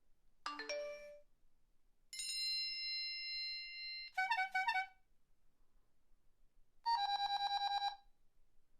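A series of separate electronic phone alert tones. First comes a quick run of rising notes, then a held chime lasting about two seconds, then a short burst of rapid pulsing beeps. Near the end there is about a second of fast trilling ring.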